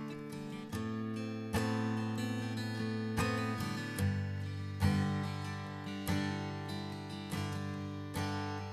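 Acoustic guitar playing a song's instrumental intro: chords struck about once a second, each left to ring.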